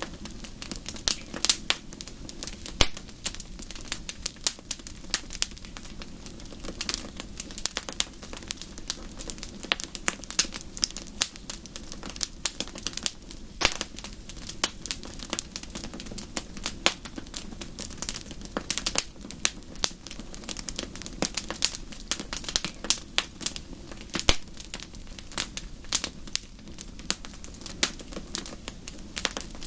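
Wood fire in a fireplace crackling, with frequent irregular sharp pops and snaps over a low, steady rumble of the flames.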